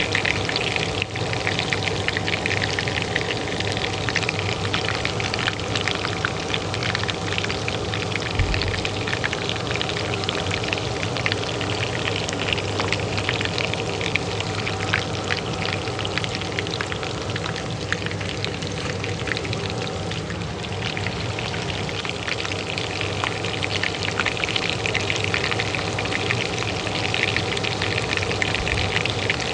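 Oil frying in a pan, a dense steady crackling sizzle, over the steady hum of a kitchen range hood fan.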